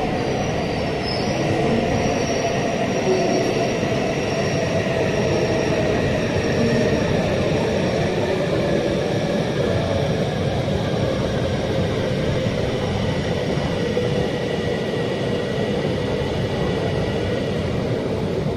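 E5 series Shinkansen train pulling slowly into the platform: a steady, loud rumble of the train rolling on the rails, with faint high whining tones that drift slightly lower.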